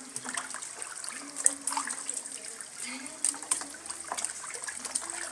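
Raw chicken pieces being washed by hand in water in a sufuria: irregular splashing and sloshing with water trickling, and short sharp clatters now and then.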